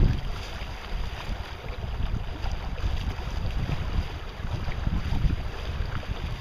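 Wind buffeting the microphone aboard a sailboat under way, in uneven gusts over a steady hiss of wind and water.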